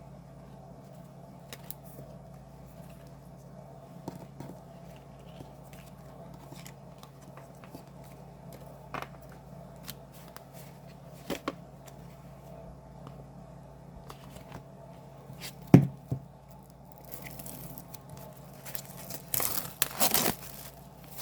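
Hands opening a K-pop album package: scattered small clicks and taps, a sharp knock about three-quarters of the way through, then tearing and rustling of the wrapping near the end.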